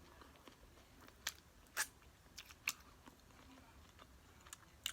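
Close-up eating sounds of a person chewing nachos: several sharp, separate crunches between quieter chewing.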